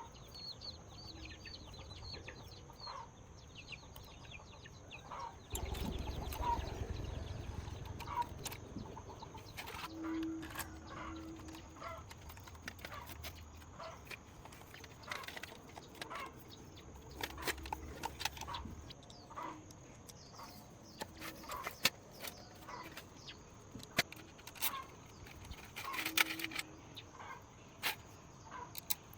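Chickens clucking on and off, with scattered sharp clicks and taps. A low rumble comes in about five seconds in and fades away past the middle.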